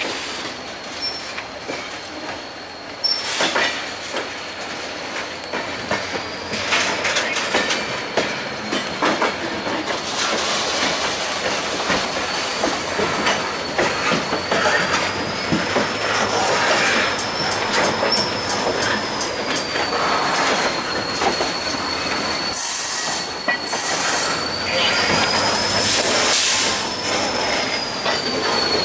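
Freight train moving slowly on curved track, its wheels squealing against the rails in a thin high tone that wavers slowly up and down, with frequent clicks and clanks as the wheels cross rail joints.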